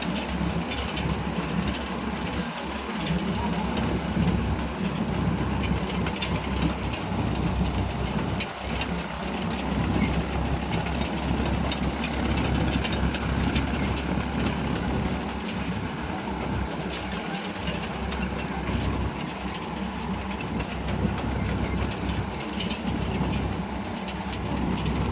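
Diesel tractor engine running steadily under load, with scattered crackling noise over it.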